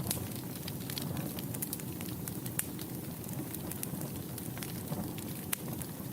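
Wood fire burning in a fireplace: a steady low rumble and hiss with dense, irregular crackles and a few louder pops.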